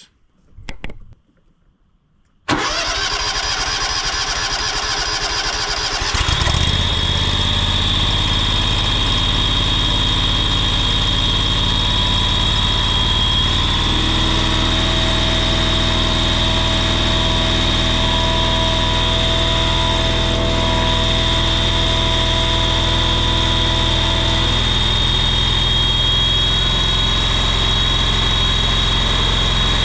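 John Deere Z910A zero-turn mower engine being cranked by its starter for about three and a half seconds, then catching and settling into a steady run with a high whine over it: its first start after an oil and filter change.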